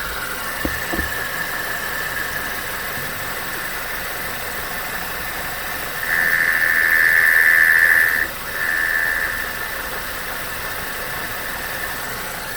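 MK6 Volkswagen Golf's air-conditioning compressor making a steady high-pitched squeal over the idling engine. The squeal swells louder about six seconds in, cuts out briefly, then returns before settling back. The owner reports the compressor still spins up and makes this noise with the AC button off, a sign of a faulty compressor or its control.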